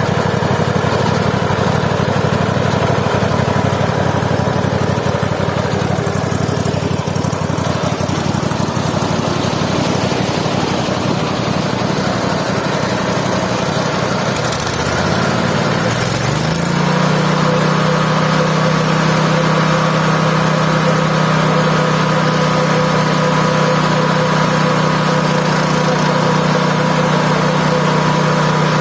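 Mobile band sawmill's engine running steadily, then speeding up a little past halfway and holding at the higher speed.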